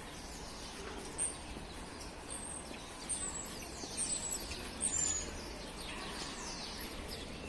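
Small birds chirping in the street trees: short high chirps every second or so, with a few falling notes, over a steady low hum of town ambience.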